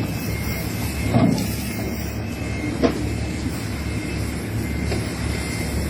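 Fishing boat's engine running with a steady low drone, with a couple of short knocks on board, one about a second in and one near three seconds in.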